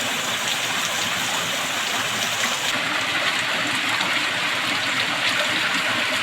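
Steady rush of a waterfall's falling water, an even unbroken noise.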